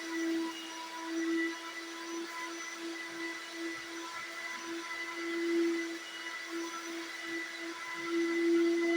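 Vacuum cleaner running with a steady whine over a rush of air, swelling louder several times as it works over sofa upholstery.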